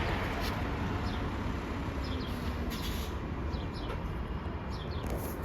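A small bird chirping: short, quick, falling chirps, mostly in pairs, repeated a few times, over a steady low rumble.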